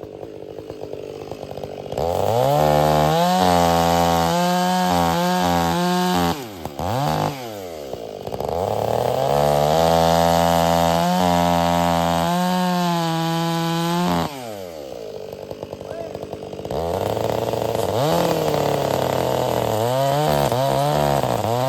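Stihl MS 500i two-stroke chainsaw, fitted with a freshly hand-filed Oregon chain, cutting wood. It revs up from idle three times and runs at full throttle for several seconds each time, its pitch wavering and dipping under load, then drops back to idle between cuts.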